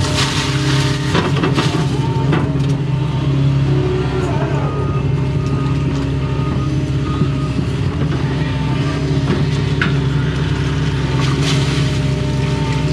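A Doosan excavator's diesel engine running steadily under working load, with hydraulic whine that glides up and down in pitch a few times in the first five seconds as the controls are worked. Scattered clicks and knocks run through it.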